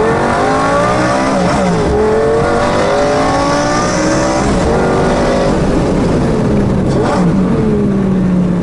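Lamborghini supercar engine accelerating hard under paddle-shifted gear changes: the engine note climbs steadily, then drops sharply at each shift, about three times.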